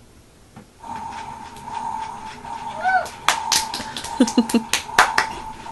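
Toy washing machine switched on about a second in, giving a steady electronic tone, with sharp plastic clicks and knocks from about three seconds in as its door and buttons are worked.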